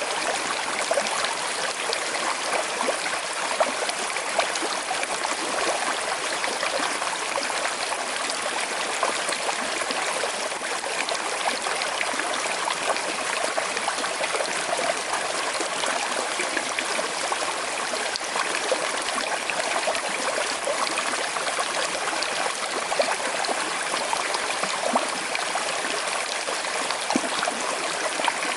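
Small river flowing steadily over stones, a constant rushing with fine trickling and gurgling.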